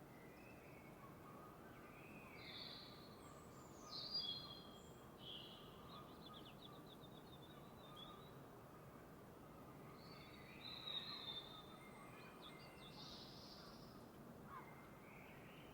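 Songbirds chirping and trilling in short scattered phrases over a faint steady hiss, with the loudest calls about four seconds in and again around eleven seconds.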